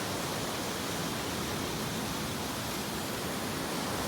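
Steady, even rush of a waterfall that runs only after heavy rain, carrying rainwater runoff down to the shore.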